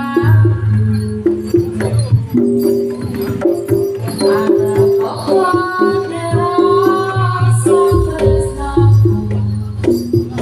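Javanese gamelan accompaniment for a Samboyo dance: hand drums and repeating metallophone notes in a steady rhythm, with a wavering melody line over them, sung or played on a shawm.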